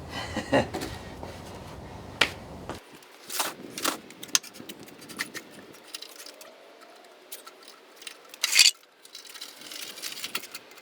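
Scattered clanks, knocks and scrapes of a heavy old Delta Rockwell drill press being shifted and eased down, with the loudest knock about eight and a half seconds in.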